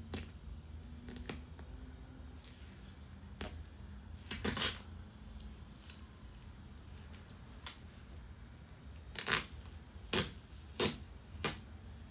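Adhesive tape being peeled off and crumpled in short crinkling, tearing rustles, about eight of them, the loudest about four and a half seconds in and in a cluster near the end.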